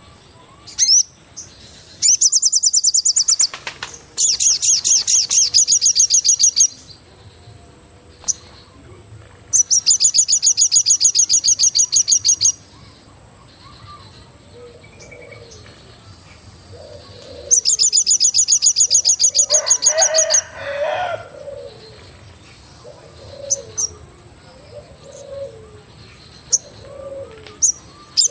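Forest birds: a loud, fast high-pitched trill comes in repeated bursts of two to three seconds each, four times. Through the second half, short lower calls recur every second or so.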